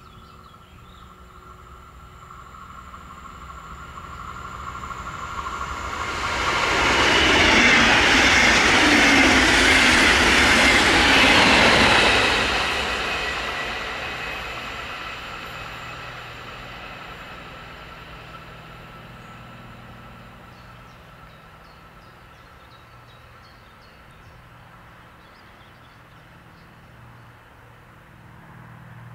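Electric train passing at speed: it grows louder as it approaches, is loudest for about five seconds as it goes by, then slowly fades away.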